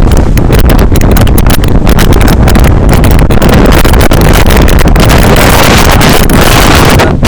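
Heavy wind buffeting the microphone on the roof of a moving bus: a loud, steady rush with rapid gusty flutter, dropping away briefly near the end.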